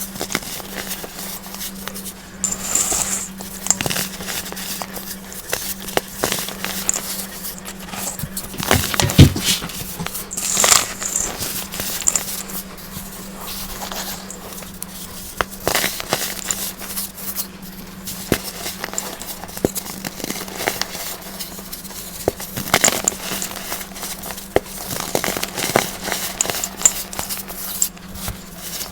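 Crunchy dried baking soda being crushed, giving a continuous run of crackly crunching and crumbling with many small clicks. The loudest crunch comes about nine seconds in. A faint steady hum runs underneath.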